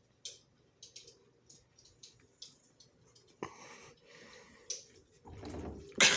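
A cat chewing with soft, irregular clicks, followed in the second half by louder rustling, breathy noise.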